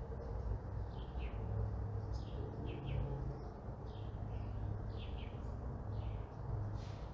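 Small birds chirping: many short, falling chirps, several a second, over a steady low rumble of distant traffic.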